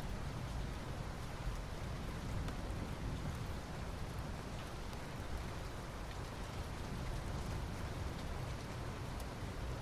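Soft rain falling steadily on asphalt, an even hiss with scattered faint drop ticks.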